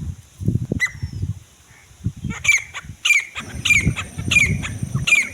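Grey francolin calling. A single note comes about a second in, then from a little past two seconds a fast run of loud, repeated high notes, about three every two seconds, over a low rumbling noise.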